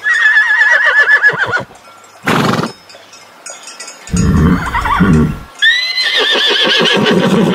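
Horse whinnying twice: a long, quavering call at the start and another near the end that rises at its onset and then wavers downward. Between them are a short noisy burst and a lower, rougher sound.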